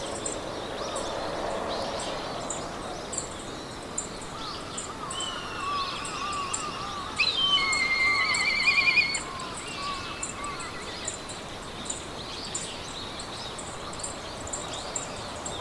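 Meadow ambience: several birds singing over a steady hiss of wind in the grass, with the loudest trilled song about halfway through. Short, high chirps repeat a few times a second throughout.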